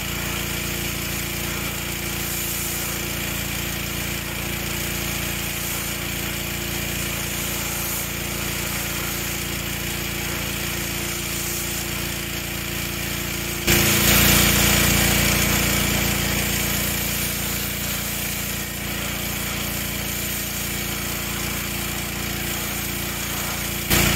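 Pressure washer running, blasting its spray at the painted fiberglass body to test how well the primer and paint hold; a steady motor hum under the hiss of the jet, which gets suddenly louder about two thirds of the way through and then slowly eases back.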